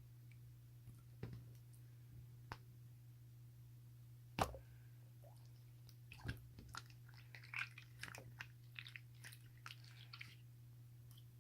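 Scattered soft clicks and small crackling taps over a steady low hum, with one sharper click about four seconds in and a busier run of small clicks in the second half.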